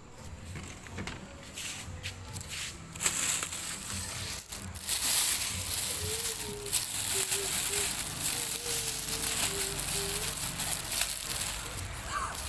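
Crisp crunching and crackling of people chewing crispy honey roast duck, many short cracks in quick, irregular succession.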